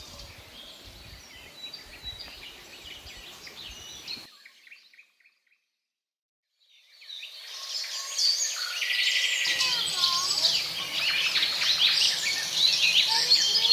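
A steady outdoor hiss with low rumbling fades out about four seconds in. After a short silence, a dense chorus of many birds fades in and grows loud: overlapping chirps, trills and whistles.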